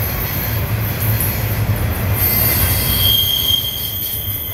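Double-stack container freight train rolling past, a steady low rumble with its steel wheels squealing on the rails; the high squeal sets in about two seconds in and holds.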